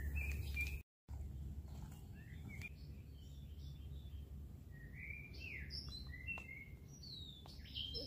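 Small birds chirping and singing in short whistled phrases, scattered at first and busier in the second half, over a steady low rumble. The sound drops out completely for a moment about a second in.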